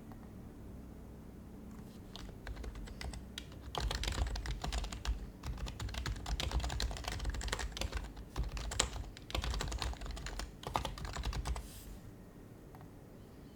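Typing on an HHKB Professional HYBRID Type-S keyboard: quick runs of soft keystrokes that start about two seconds in, grow dense and stop about two seconds before the end.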